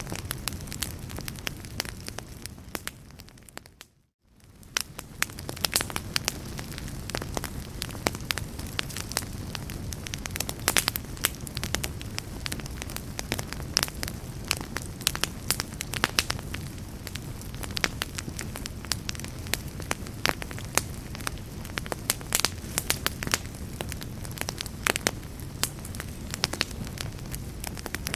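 Wood fire crackling in a fireplace: frequent sharp pops and snaps over a steady low rumble. About four seconds in, the sound fades to near silence and comes back up within a second or so.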